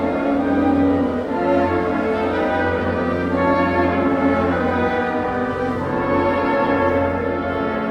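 A chamber wind ensemble playing a slow passage of sustained, overlapping held chords that shift gradually.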